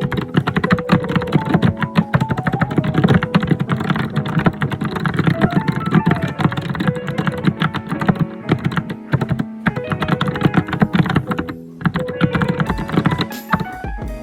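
Computer keyboard typed fast and hard, a dense run of key clicks, with background music playing under it. The typing thins out and stops near the end while the music carries on.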